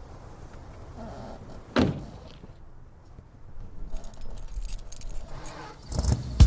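A low steady rumble with a single sharp thump about two seconds in, then light metallic jingling and clicking; louder sound starts near the end.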